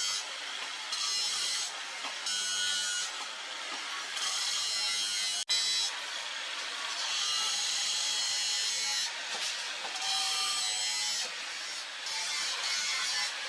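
Workshop tool noise: a steady scraping, grinding sound, with a brief drop-out about halfway through.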